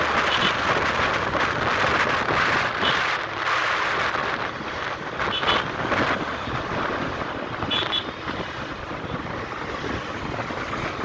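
A motorcycle riding along, with wind buffeting the microphone, and a few short high beeps through it.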